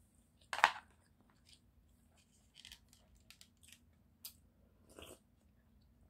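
Close-miked eating of sushi: one loud crunchy bite about half a second in, then soft chewing with scattered small clicks and wet smacks.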